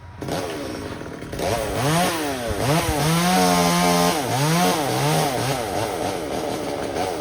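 Two-stroke chainsaw revving, its engine pitch rising and falling over and over, then held high for about a second midway as it runs at full throttle.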